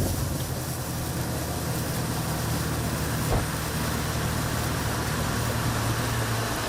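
Boat motor running steadily with a low hum, wind noise on the microphone.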